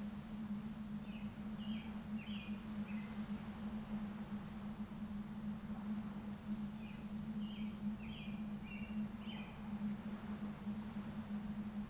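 A small bird sings two short phrases of quick chirping notes, the second about six seconds after the first, over a steady low hum.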